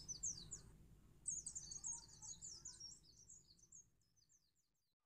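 A small bird singing in fast runs of high, sweeping chirps: a short burst, then a longer phrase from about a second in that trails off and fades out.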